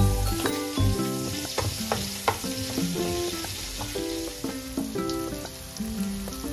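Diced onion and bacon sizzling as they fry in oil in a non-stick pan, stirred with a wooden spatula, with a few light knocks of the spatula. Background music with stacked piano-like notes plays over it.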